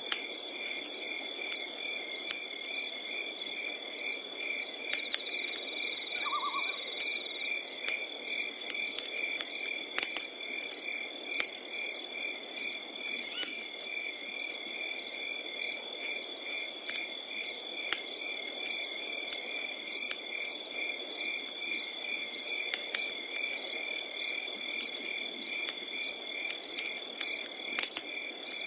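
Night insects, crickets chirping in an even rhythm of about two chirps a second over a continuous high trill, with a wood campfire crackling underneath and sharp pops here and there.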